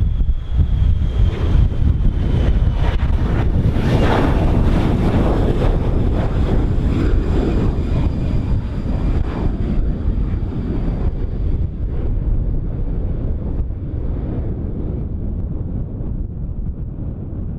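Boeing 737-500's CFM56-3 turbofan engines at takeoff power: a deep rumble with a faint whine that falls in pitch as the jet passes, slowly fading away. Wind buffets the microphone.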